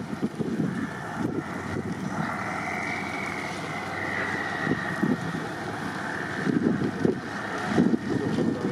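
Trial truck's engine running with uneven surges in power and a high whine that rises and falls, with wind buffeting the microphone.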